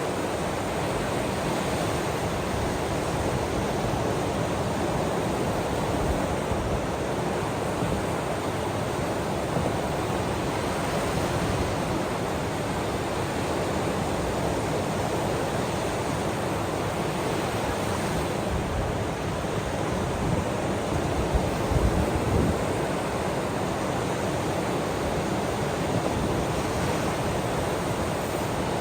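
Ocean waves washing on the shore as a steady, even rush of surf with no distinct breaks, swelling slightly a little past the middle.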